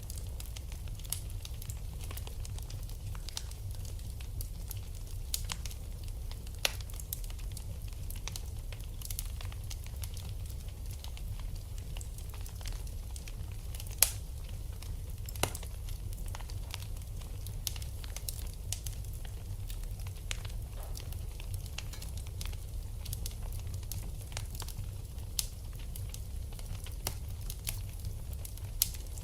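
Wood fire burning in a fireplace: steady low rumble with irregular crackles and pops, the sharpest pop about halfway through.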